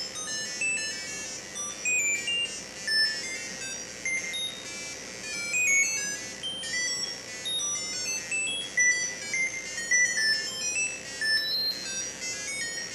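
Hamster robot playing a rapid run of random electronic beep notes, a new pitch every tenth of a second, jumping up and down without a tune.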